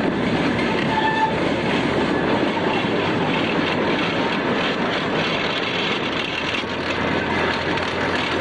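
Narrow-gauge train running along the track, heard from an open passenger car: a steady rumble with continuous clatter of the wheels on the rails.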